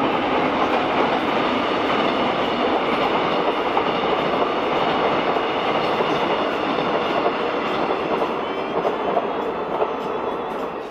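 A train running past close by on the track, a loud steady noise of wheels on rails that starts suddenly and cuts off near the end.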